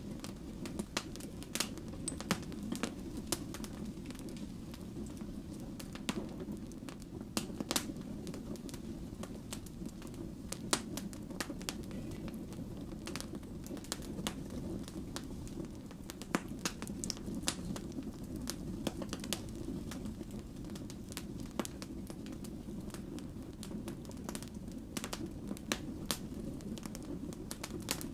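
Firewood burning, with a steady low rush of flame and irregular sharp crackles and pops from the logs, several a second.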